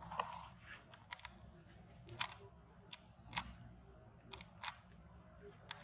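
A series of short, sharp clicks at irregular intervals, about ten in all, some in quick pairs.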